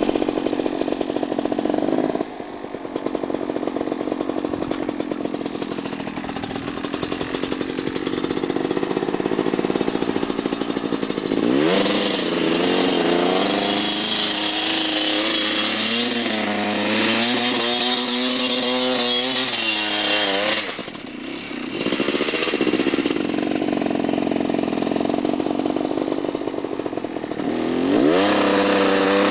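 Motorcycle engine revved hard over and over, its pitch climbing and falling. It is held at high revs for several seconds in the middle with the pitch wavering, as in doing burnouts or donuts, then briefly drops off and climbs again.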